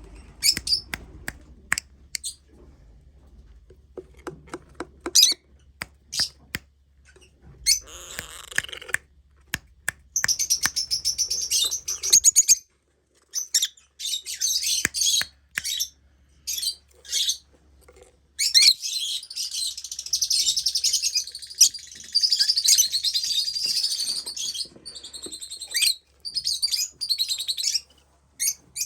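Small birds chirping and twittering in rapid high-pitched runs that come and go every few seconds, with scattered sharp clicks between them.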